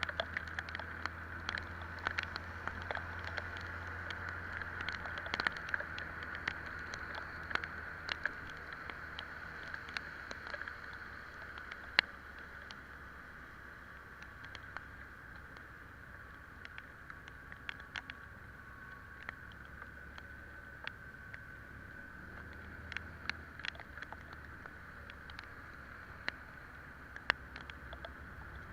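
Italika Vitalia 125 scooter's single-cylinder engine running with a steady low hum while riding in the rain, with many irregular sharp ticks of raindrops throughout. The sound is a little quieter from about a third of the way in.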